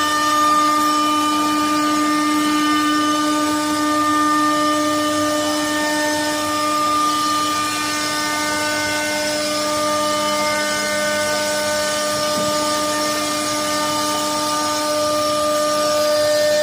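CNC wood router's spindle running with a steady whine as its bit carves wood, the whine holding several overtones that shift slightly as the cut goes on.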